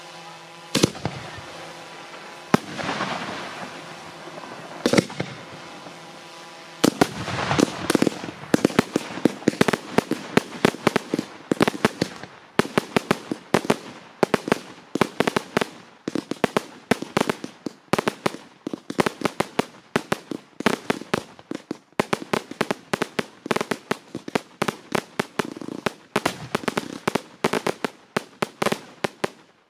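Fireworks going off: three separate bangs over a steady hum in the first few seconds, then from about seven seconds a rapid barrage of bangs, several a second, that cuts off abruptly near the end.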